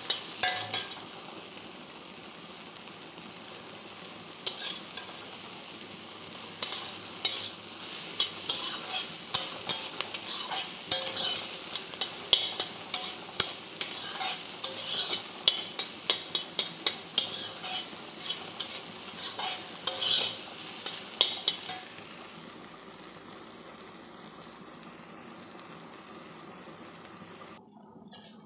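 Soybeans frying in oil in a wok, sizzling steadily, while a spatula stirs them, scraping and clicking against the pan. The spatula strokes come thick and fast through the middle, leaving mostly the sizzle near the end.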